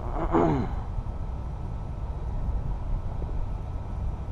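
Wind buffeting the microphone, a steady low rumble, with a short voice-like sound falling in pitch about half a second in.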